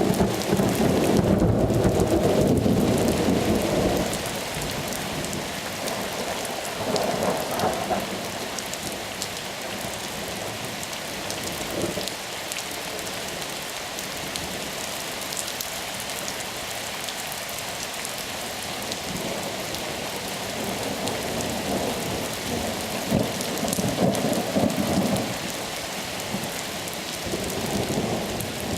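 Thunderstorm: rain falling steadily with thunder rumbling. A loud rumble at the start dies away about four seconds in, and quieter rolls of thunder come back several times later.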